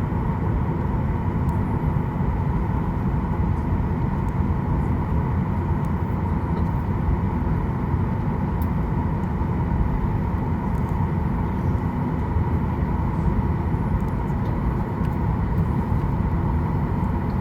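Steady cabin noise inside a Boeing 737-800: a low rumble with air hiss and a faint steady whine.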